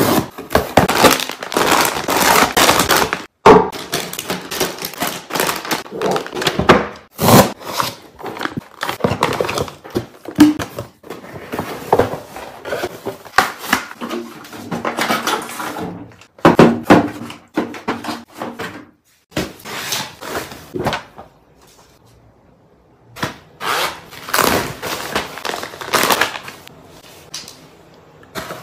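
Packages and containers of freeze-dried food handled close to the microphone: irregular rustles, knocks and clatters, with a short quiet stretch about three quarters of the way through.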